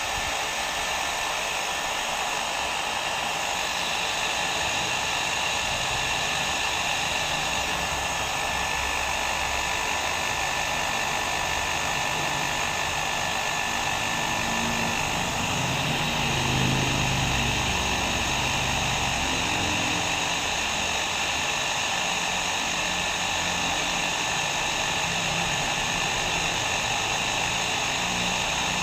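Hair dryer running steadily: a constant rush of blown air with a steady motor whine in it.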